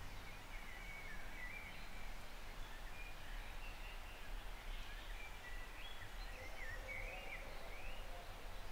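Faint bird calls: short chirps and quick rising and falling whistles, repeating, over a low steady rumble.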